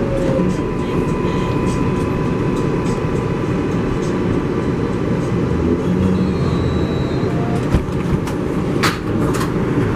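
Steady rumble of an R188 subway car running on the rails, heard from inside the car, with faint whines and a few sharp clicks near the end.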